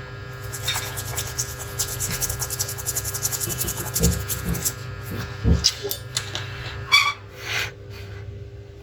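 Fast, rapid rubbing or scrubbing strokes on a laptop circuit board for a few seconds, over a steady electrical hum, followed by a few scattered knocks and clicks.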